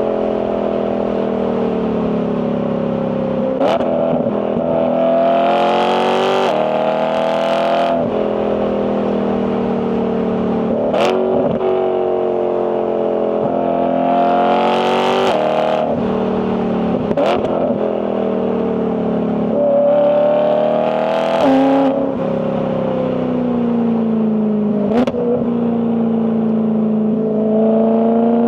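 BMW E92 M3's 4.0-litre S65 V8 exhaust under hard driving. The pitch climbs under throttle and falls back several times, with abrupt drops and a sharp crack at several of the DCT gear changes.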